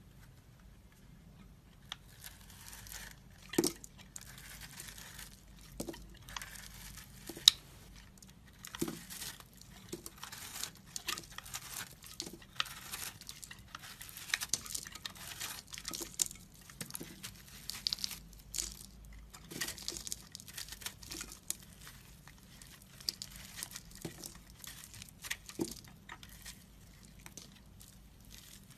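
Blade cutting and scraping into a bar of soap: a run of irregular crisp, scratchy strokes with crunching and sharp little cracks as pieces break off. It begins about two seconds in, and a few cuts are much louder than the rest.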